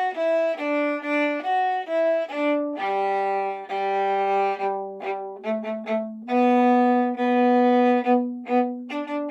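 Violin playing a tune: quick short notes at first, then longer held notes, a few short detached notes about two-thirds of the way through, and long low held notes near the end.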